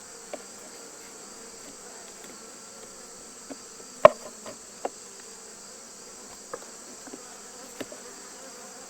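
Honey bees humming steadily around an open hive during an inspection, with a few sharp knocks of wooden hive frames being handled; the loudest comes about four seconds in.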